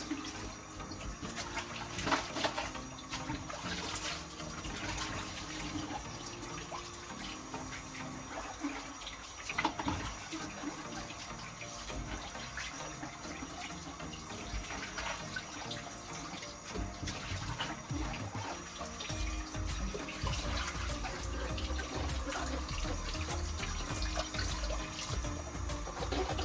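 Water running from a tap into a sink, with a few knocks against the sink about two, four and ten seconds in.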